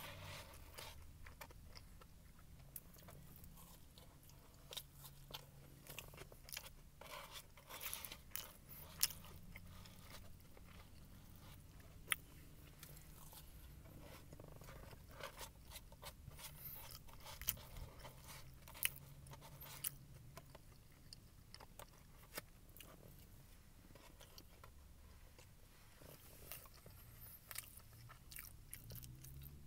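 Close-up eating of a crispy fried chicken and glazed donut sandwich: chewing with scattered crisp crunches and mouth clicks, over a low steady hum.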